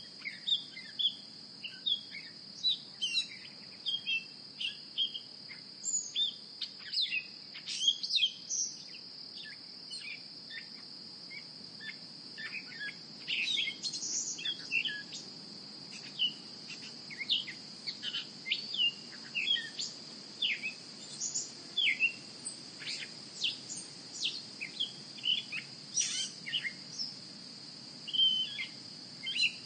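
Several birds chirping and calling in many short, quick notes over a steady high-pitched drone.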